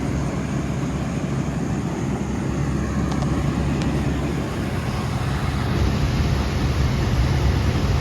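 Bard wall-mount heat pumps running: a steady whoosh of the outdoor fan over a low compressor hum. The sound gets slightly louder about six seconds in.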